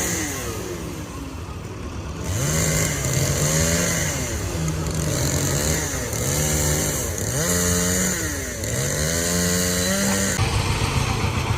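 Small engine idling, then revved up and down about six times in quick succession, each rev lasting about a second, before dropping back to idle near the end.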